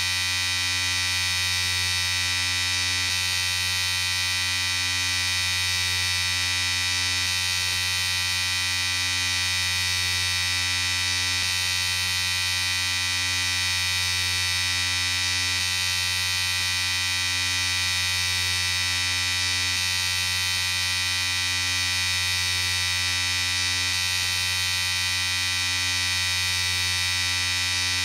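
Electric shaver running with a steady high buzz that does not change.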